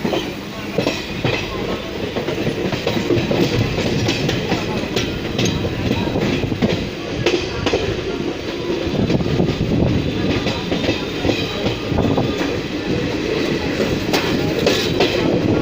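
Train running on the rails: a continuous rumble and rattle with frequent sharp clicks of the wheels over the rail joints.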